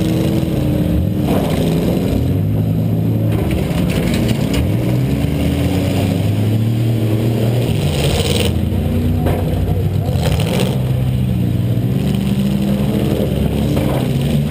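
A Buick LeSabre's 3.8-litre V6 revving up and down again and again, heard from inside the car, with a few sharp knocks of hits along the way.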